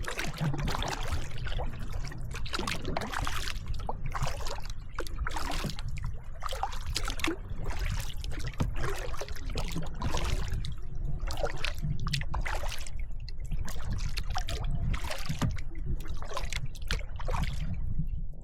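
Kayak paddle strokes splashing and dripping in the water, roughly once a second, over a steady low rumble.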